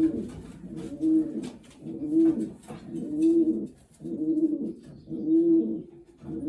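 Racing pigeon cooing: a run of low, rising-and-falling coos repeated about once a second.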